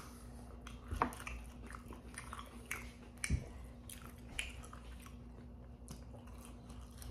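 Close mouth sounds of biting into and chewing breaded, fried chicken fries: scattered crunchy crackles and wet clicks, with the loudest about one second in and again just after three seconds.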